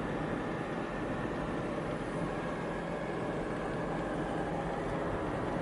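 Steady car engine and road noise, even and unbroken.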